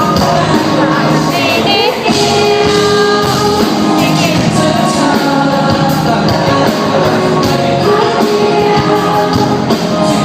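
Live band music with a lead vocal singing over it, loud and continuous.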